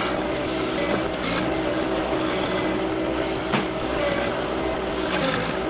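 John Deere 2025R compact tractor's three-cylinder diesel engine running steadily while digging, with a single sharp knock about three and a half seconds in.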